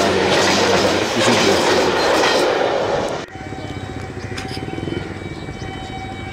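Freight train of covered goods wagons passing close at speed, a loud rumbling clatter of wheels on rail. It cuts off abruptly about three seconds in, leaving a much quieter steady hum with a faint held tone.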